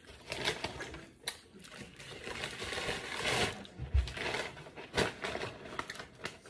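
Close-up chewing and mouth sounds of someone eating, with scattered small clicks and a brief low thump about four seconds in.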